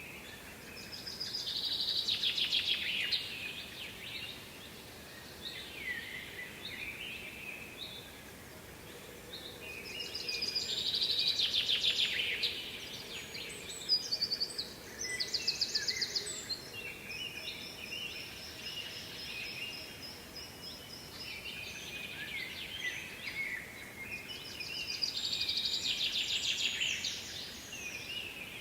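Songbirds singing: three long, loud trilled phrases about a minute apart in the song's own rhythm (near the start, in the middle and near the end), with shorter chirps and calls between, over a steady background hiss.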